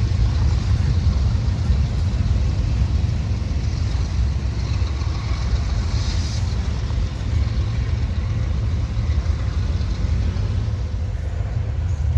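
Intermodal freight train rolling past, a steady low rumble.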